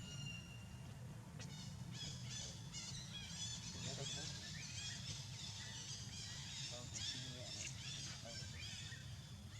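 Many short, high-pitched chirping calls overlapping in a busy chorus, starting about a second and a half in, over a steady low rumble.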